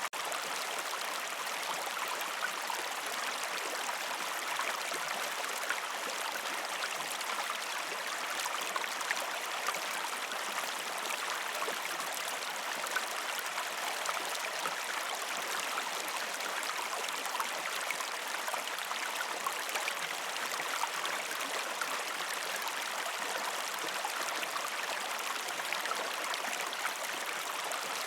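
Shallow river stream flowing steadily over rocks, an even rushing with fine splashing and gurgling.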